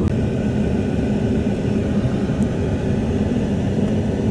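Squatted pickup truck driving at a steady pace: an even engine hum and road rumble with no change in pitch.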